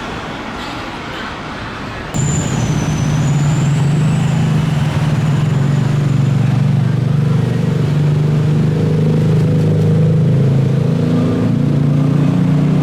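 Jet airliner engines running with a loud, steady drone that comes in suddenly about two seconds in, with a thin high whine gliding briefly just after it starts.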